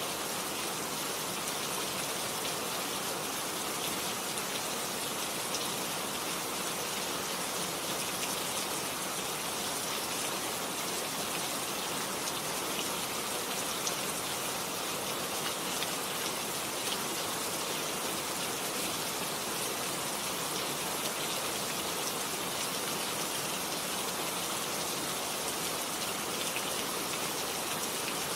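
Steady rain falling, an even hiss of dense drops that holds at one level without let-up.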